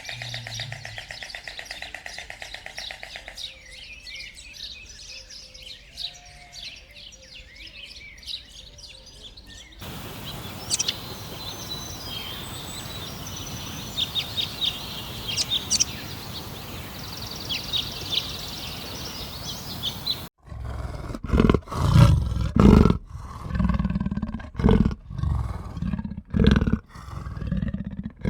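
A run of animal sounds cut together: birds chirping high over a steady hiss in the middle, then loud, low animal calls one after another near the end.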